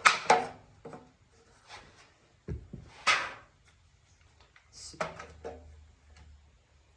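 About five separate knocks and clunks of tools and metal parts being handled and set down, with quiet between; the loudest come right at the start and about three seconds in, the second with a low thud.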